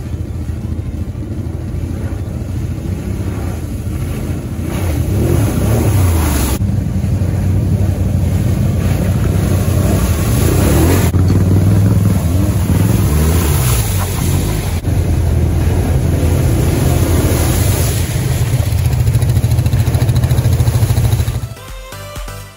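ATV engines revving up and easing off in turn as quads drive one after another through a flooded trail, with water splashing and spraying. The engine sound cuts off near the end.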